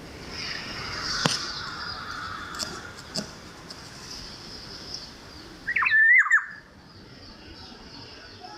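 Black-naped oriole giving a short, loud whistled call with quick pitch bends about six seconds in, over a steady hiss of light drizzle broken by a few sharp clicks.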